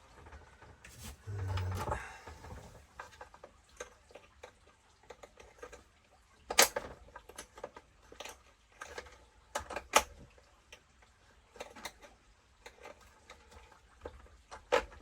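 A short hissing spray from an aerosol can of GT85 about a second and a half in, then scattered clicks and knocks of small tools and metal parts being handled.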